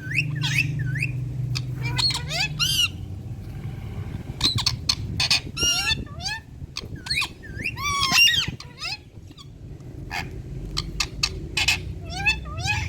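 Indian ringneck parakeet giving a rapid run of sharp squawks and chirps that sweep up and down in pitch, loudest about eight seconds in, over a steady low hum.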